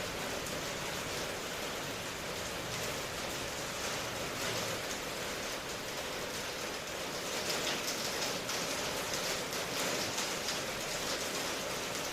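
Steady rain falling, an even hiss that gets a little louder a bit past halfway through.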